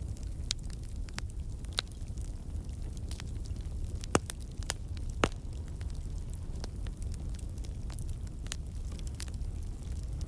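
Wood campfire burning: a steady low rumble of flames with scattered crackles from the burning logs, and two sharper pops near the middle. The crackling comes from water and sap in the wood turning to steam and escaping.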